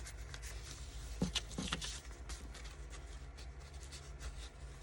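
Paper envelopes rustling and tapping as they are handled and set into a journal, with a few sharper crinkles about a second and a half in, over a steady low hum.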